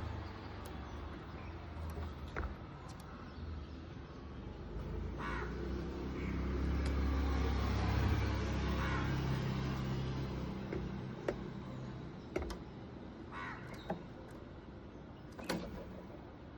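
A bird giving several short, harsh calls spread out over the stretch, over a low rumble that swells and fades around the middle.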